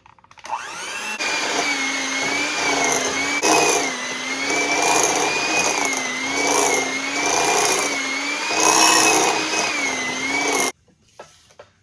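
Electric hand mixer running on medium speed, its beaters creaming butter and sugar in a glass bowl. The motor spins up in the first second, its whine wavering in pitch and swelling every second or two as the beaters work through the mixture, and cuts off suddenly near the end.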